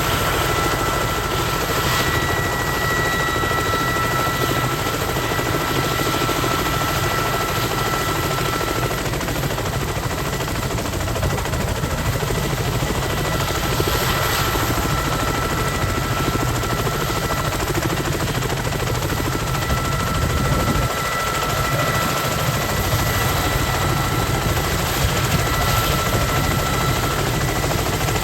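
Kamov Ka-32 helicopter running on the ground: its twin turboshaft engines give a steady high whine over the dense, even noise of the turning coaxial rotors.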